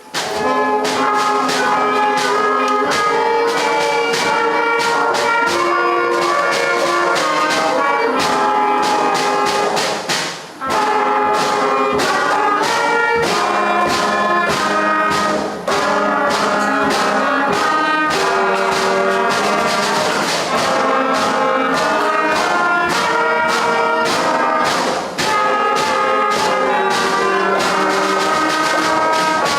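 A school concert band of upper primary students playing, with brass and woodwinds holding notes over percussion. The music starts suddenly at the beginning, with a short break about ten seconds in.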